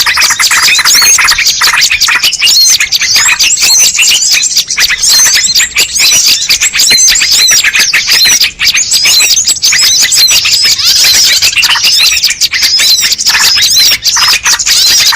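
Bird-lure recording: a dense, unbroken chorus of many small birds chirping and twittering rapidly over one another, with quick high notes packed closely together.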